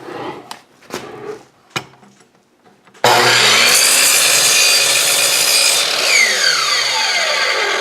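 A Chicago Electric 10-inch sliding miter saw makes its first cut. After a few light knocks, the motor starts suddenly about three seconds in and the blade runs loud through wood. About three seconds later the trigger is let go and the motor's whine falls steadily in pitch as the blade spins down.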